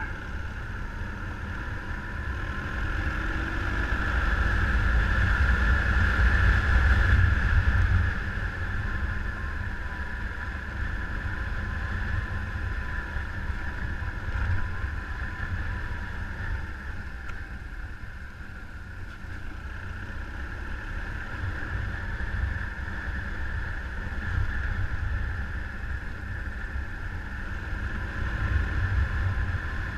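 Motorcycle engine running steadily under a heavy low rumble of wind over the microphone. It swells over the first several seconds and drops back about eight seconds in.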